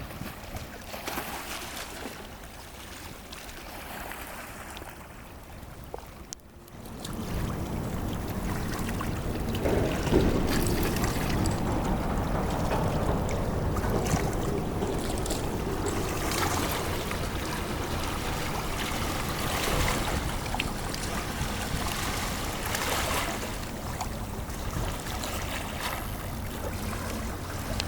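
Sea waves washing in, a steady rushing of water. About six and a half seconds in it dips briefly, then comes back louder and fuller.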